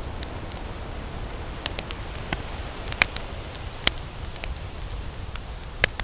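Wood campfire crackling, with irregular sharp pops and snaps, the loudest about three seconds in, near four seconds and near the end, over a low steady rumble.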